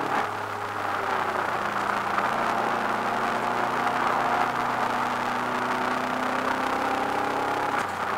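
Subaru Impreza WRX's turbocharged flat-four engine running hard, heard from inside the cabin, its note nearly level in pitch over a loud rush of road noise, with a brief break in the note near the end.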